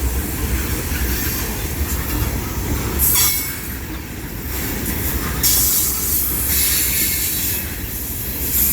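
Florida Gulf and Atlantic Railway freight train of mostly empty cars rolling past on a curve: a steady low rumble, with bursts of high-pitched wheel squeal about three seconds in and again from about halfway. The squeal is the wheel flanges rubbing against the curved rail.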